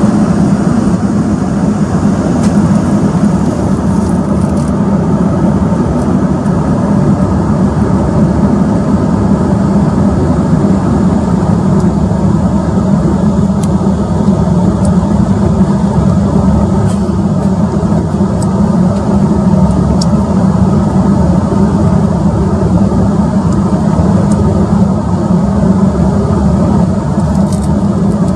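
Steady jet engine and airflow noise inside the passenger cabin of an Embraer 195-E2 with Pratt & Whitney PW1900G geared turbofans, a constant deep drone with no change in pitch.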